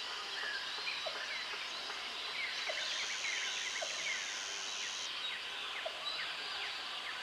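Tropical forest ambience: many birds chirping and whistling over one another, with a high insect buzz that comes in about two and a half seconds in and cuts out about five seconds in. A short low call repeats about once a second underneath.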